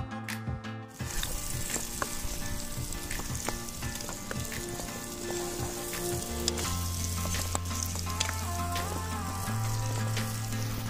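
Chicken and shallots sizzling in a pan over a wood fire, starting about a second in. A spatula stirs through the food, with scattered small scrapes and clicks against the pan.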